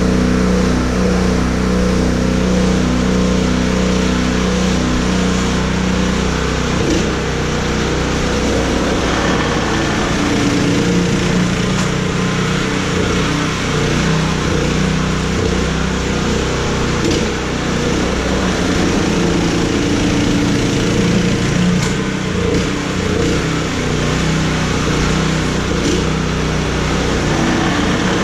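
An engine running steadily, its note shifting a little several seconds in.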